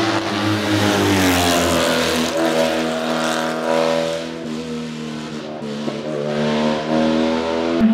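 A classic racing car's engine at full song on a hill climb. Its pitch sinks and fades over the first few seconds, then rises again as it picks up revs near the end.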